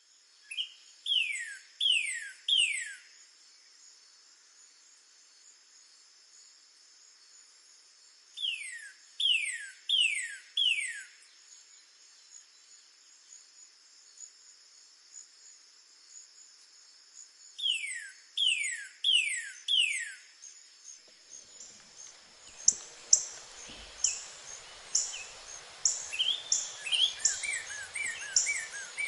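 Northern cardinal singing: three phrases of three or four loud down-slurred whistles each, spaced several seconds apart, over a steady high insect trill. In the last third, other birds join with rapid high chirps.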